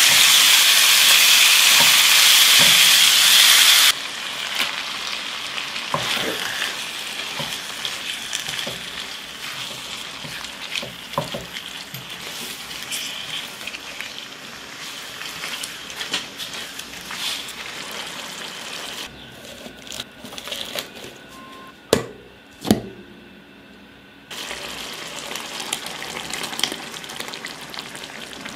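Chicken pieces frying in oil and masala in a nonstick pan, stirred and scraped with a silicone spatula. A loud sizzle for about four seconds cuts abruptly to a quieter sizzle with spatula scrapes, and two sharp knocks come about three-quarters of the way through.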